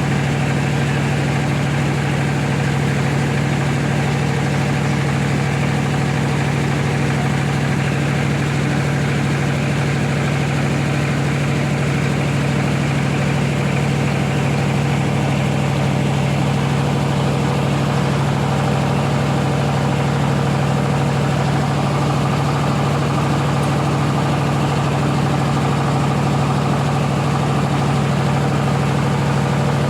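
A rice milling machine running steadily, with an unchanging machine drone and a strong low hum.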